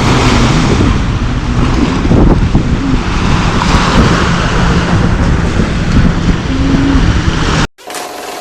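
Strong wind buffeting the microphone over lake waves breaking on the beach, a loud steady rush. It cuts off suddenly near the end, leaving a quieter steady hum.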